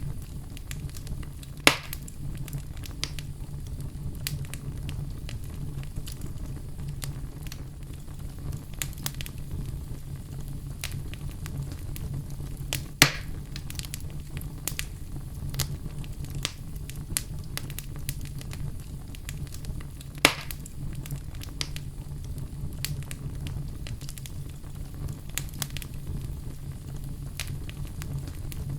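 Wood fire crackling, with a steady low rumble under scattered small pops. Three sharper, louder snaps come about two seconds in, near the middle and about two-thirds of the way through.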